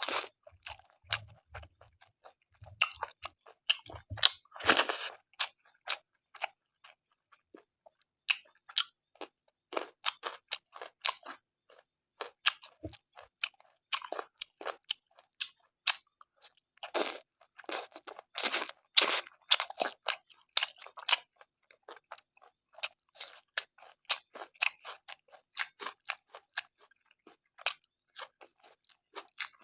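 Close-up mouth sounds of a person eating pork curry with gravy and rice: wet chewing with frequent short crunches and smacks, coming in irregular clusters.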